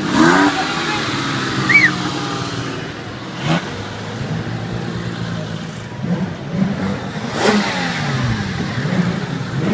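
Car engines revving, their pitch rising and falling several times, with a short sharp high squeal about two seconds in.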